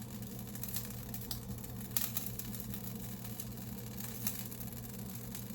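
A steady low hum from a running kitchen appliance, with a few faint scattered clicks and taps.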